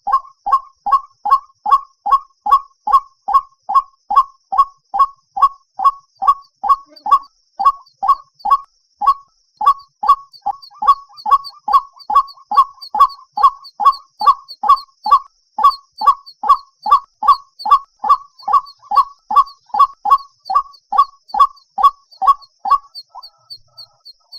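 White-breasted waterhen calling: a steady run of repeated call notes, about two a second, that stops near the end.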